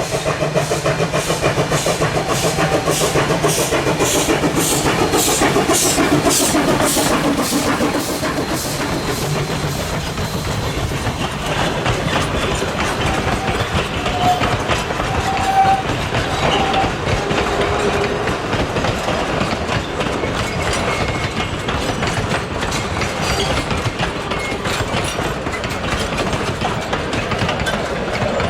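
QR C17 class steam locomotive 974 working past with a regular chuffing exhaust beat for the first several seconds, followed by its train of carriages rolling by with a steady clickety-clack of wheels over the rail joints.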